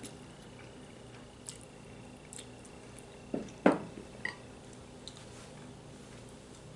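Quiet eating sounds of stew from a bowl: a few soft scattered clicks, and two short louder mouth or utensil sounds about three and a half seconds in.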